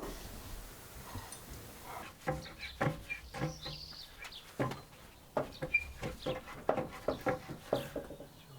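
Irregular light knocks and clatters of wooden pieces being handled and set down, with a bird chirping briefly a few times between them.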